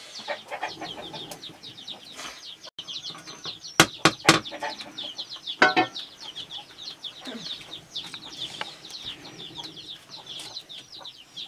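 Birds chirping rapidly and continuously in high short notes, with a few loud sharp knocks about four seconds and six seconds in.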